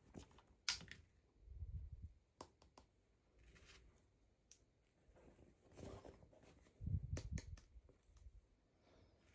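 Quiet handling of toy packaging: scattered sharp clicks and light rustles, with soft knocks at about two seconds in and again near seven seconds.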